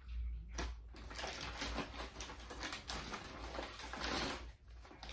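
Close-up eating and food-handling sounds: a sharp click about half a second in, then a dense spell of crackly crunching and rustling lasting about three and a half seconds.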